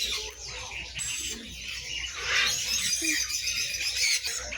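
Many caged birds chirping and calling at once, a dense overlapping chatter of high, short notes.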